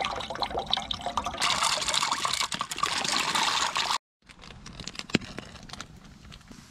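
Canned kidney beans and their liquid pouring and splashing out of the can for about four seconds, then the sound cuts to a much quieter stretch with a few sharp knocks.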